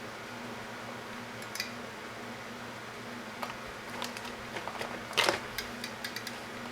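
Light clicks and knocks of wires and small parts being handled at a workbench, the loudest knock about five seconds in, over a steady low electrical hum.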